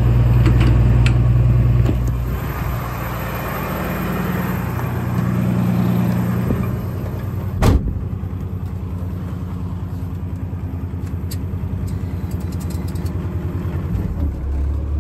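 Engine idling, its note dropping about two seconds in and settling into an even pulsing beat, then shifting lower again near the end. There is one sharp click a little before the middle.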